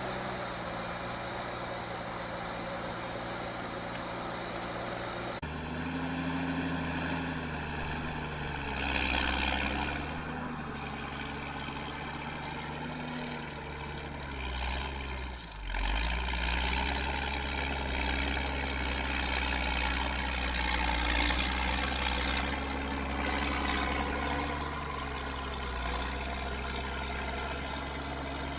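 Heavy truck engines running and revving, the pitch rising and falling, with the sound changing abruptly twice as one clip cuts to another.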